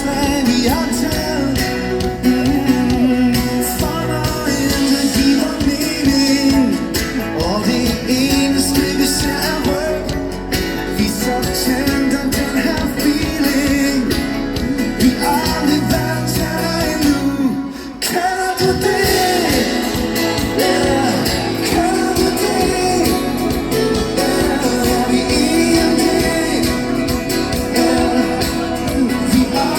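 Live rock band playing with a singer, heard loud through a phone microphone from the audience, with a steady drumbeat; the music drops out for a moment about two-thirds of the way in before coming back.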